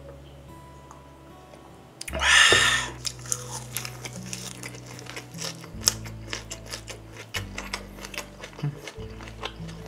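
Close-miked wet chewing clicks of a person eating a perilla-leaf wrap of grilled pork skin, over background music with a stepping bass line. About two seconds in comes a loud breathy exhale right after a shot of soju.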